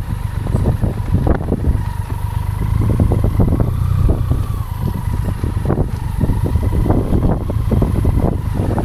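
Motorcycle on the move, its engine running steadily as a low rumble with a thin steady whine, and wind buffeting the camera's microphone in irregular gusts.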